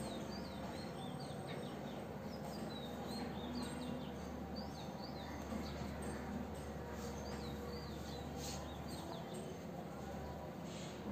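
Small birds chirping in quick, short, high calls, in bursts over the first few seconds and again in the middle, over a steady low hum of background noise.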